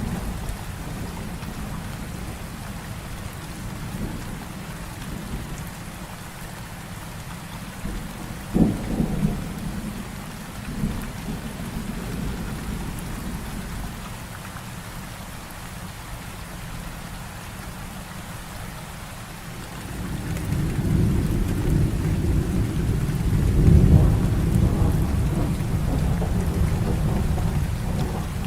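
Heavy rain falling steadily through a thunderstorm. A sharp crack of thunder comes about a third of the way in, and a long, low thunder rumble builds and fades in the last third.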